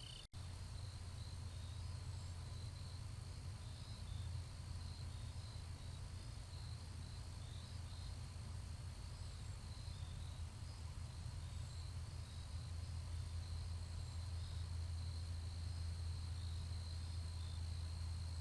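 Insects chirping in a steady high trill, with small irregular chirps on top, over a louder low steady hum.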